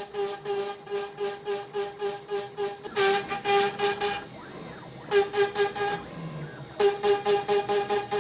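CNC router spindle driving a compression end mill through birch wood: a steady pitched cutting whine that pulses about four to five times a second. It drops out twice for under a second, about four and six seconds in, as the cutter leaves the wood.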